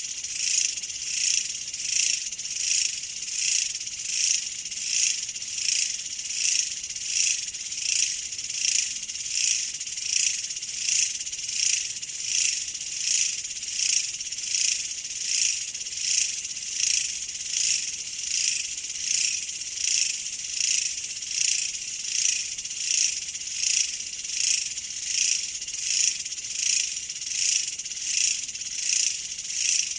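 A chorus of chirping insects: high-pitched chirping that swells in a very even rhythm, about four pulses every three seconds, with nothing in the low range.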